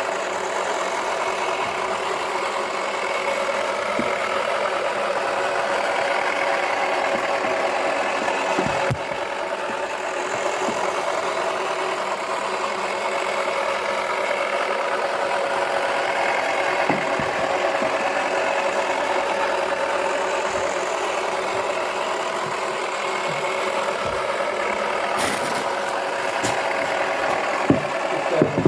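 Toy washing machine's small motor running steadily, a constant hum and whine, with a couple of sharp clicks near the end.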